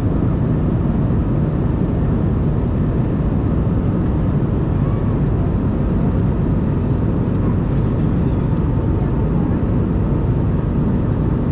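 Steady cabin noise of an Embraer E190-E2 airliner: a low drone from its Pratt & Whitney PW1900G geared turbofan engines and airflow, heard from inside the cabin, with a faint steady whine on top.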